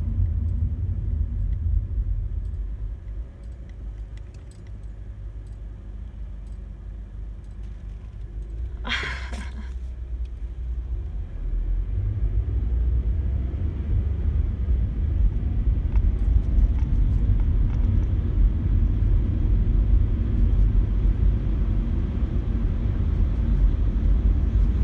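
Car cabin noise while driving: a steady low rumble of engine and tyres on the road. It drops for several seconds, then grows louder from about twelve seconds in as the car picks up speed. A brief higher-pitched sound stands out about nine seconds in.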